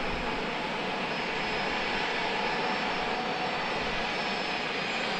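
Jet airliner engines running, a steady even rush with a faint high whine.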